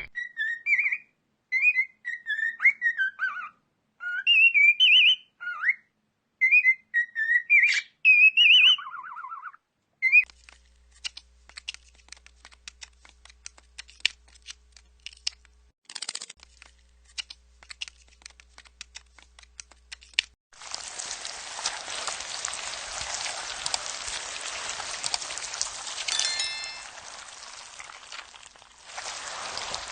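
A run of short, high, gliding chirps and whistles for about the first ten seconds. Then scattered clicks, and in the last third a steady hiss with more clicking.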